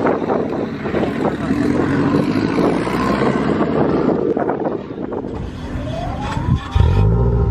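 Car engines running in a parking lot, with a rising engine note about six seconds in. Just before the end, a loud, steady low engine rumble starts suddenly.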